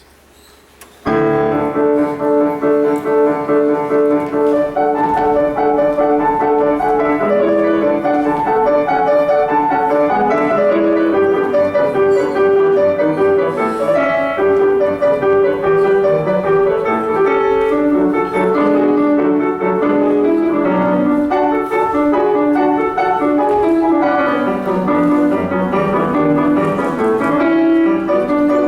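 Solo piano music in a classical style, starting about a second in and playing a continuous melody.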